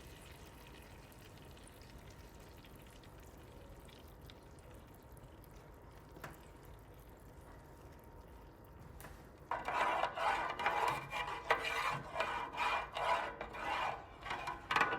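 Faint steady background noise, then, about two-thirds of the way in, a utensil stirring sauce in a pan, rubbing and scraping against the pan in quick uneven strokes.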